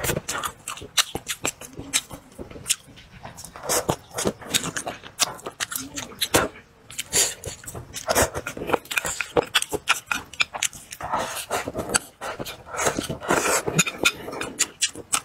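Close-up eating sounds: a man chewing mouthfuls of braised fish and rice, with frequent lip-smacking clicks.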